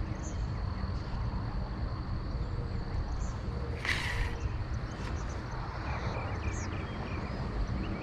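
Wind rumbling on the microphone, with small birds chirping now and then. There is a faint steady high insect-like tone and a short hiss about four seconds in.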